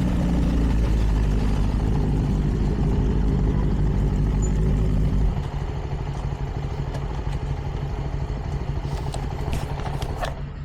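Motorcycle engines idling. About five seconds in, the louder, deeper-running engine stops suddenly, leaving a quieter steady idle, and a few light clicks come near the end.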